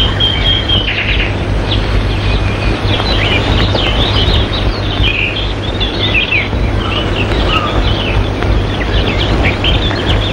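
Many small birds chirping in a dense chorus of short, quick chirps over a steady low hum.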